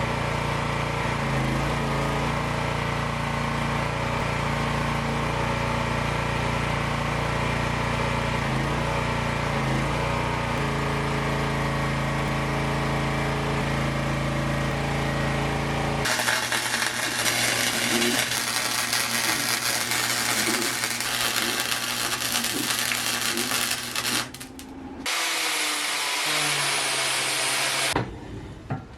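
Power tools running: for about 16 seconds a motor runs with a steady pitched hum that sags briefly a few times, as under load; then it cuts abruptly to a harsher, crackling hiss of metalwork, followed near the end by short bursts of another tool.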